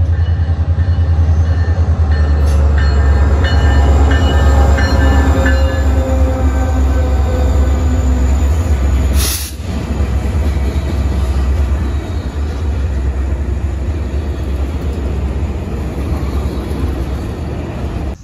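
Freight train with diesel locomotives rumbling heavily as it comes through a grade crossing. After a sudden cut about nine seconds in, the train's cars roll past on the rails with a steadier, quieter rumble.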